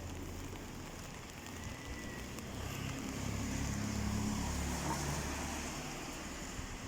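A car passing along the street, its engine growing louder about three seconds in and fading after five seconds, over a steady hiss of rain.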